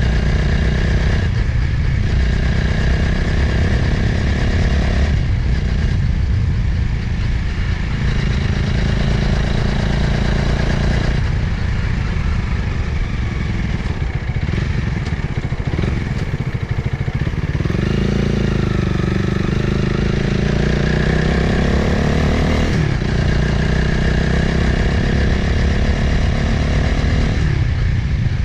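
Motorcycle engine running at road speed with wind noise, its note shifting with the throttle. In the second half it climbs steadily for several seconds under acceleration, then drops.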